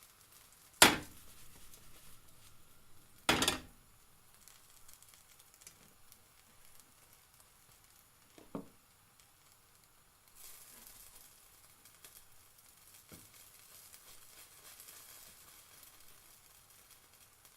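Pancake cooking in a frying pan: two sharp knocks about a second in and at about three and a half seconds, and a softer one near nine seconds. From about ten seconds in, a faint steady sizzle.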